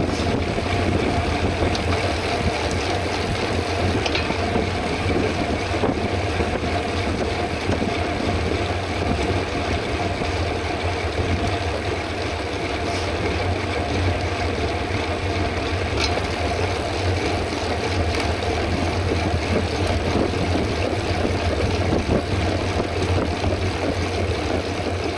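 Steady wind rush and rumble on the microphone of a camera riding on a moving bicycle at race pace.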